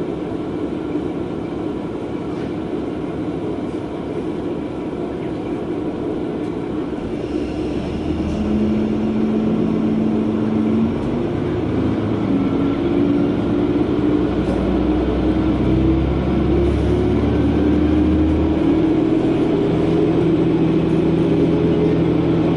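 Diesel railcar running along the line, its engine and wheel noise a steady rumble; about a third of the way in it gets louder and the engine note climbs steadily as the railcar speeds up.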